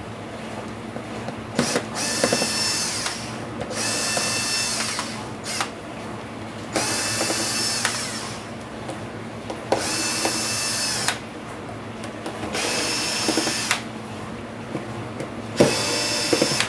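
Electric screwdriver whirring in six short runs of about a second each, taking the screws out of an ASUS G1S laptop, with small clicks and taps between runs.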